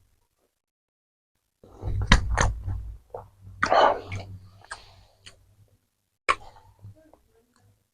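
Close-miked mouth sounds of eating: wet chewing and lip-smacking clicks, with a breathy exhale in the middle.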